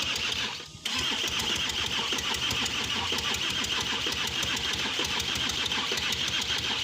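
Audi Q7's V6 diesel engine turning over on the starter without catching, a steady rhythmic cranking that begins about a second in, over a constant starter whine. It is being cranked for a relative compression test, which shows uneven compression with one cylinder nearly dead, suspected to be number 3.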